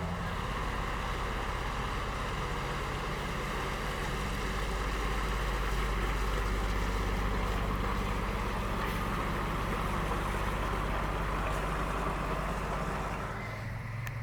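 Boat engine running steadily with a low hum, fading away near the end.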